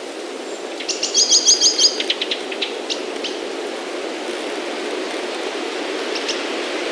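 Steady wind noise, with a small bird calling over it: a fast run of high chirps about a second in, trailing off into a few single chirps, and two more chirps near the end.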